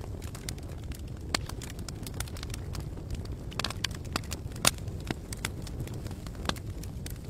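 Campfire crackling: irregular sharp pops and snaps of burning wood over a steady low rumble, with a quick cluster of pops just past halfway and the loudest single pop shortly after.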